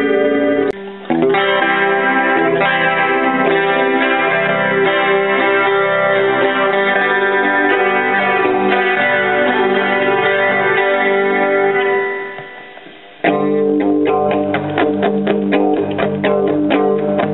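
Electric guitar played clean through a Roland Jazz Chorus combo amplifier: ringing sustained chords, one left to die away near the end, then quicker picked notes.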